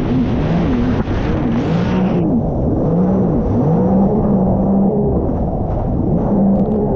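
Sea-Doo RXP-X 300 jet ski's supercharged three-cylinder engine running under way, its pitch rising and falling again and again as the throttle is worked. A rushing hiss lies over it for the first two seconds, then drops away.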